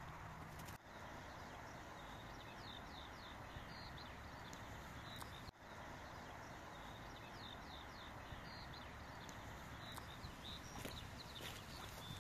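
Outdoor ambience: small birds chirping in short runs of quick falling high notes, repeated several times over a steady soft background hiss.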